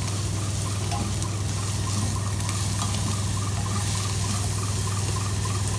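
Diced potato and onion frying in oil in a non-stick pan to soften: a steady sizzle, with a low steady hum underneath.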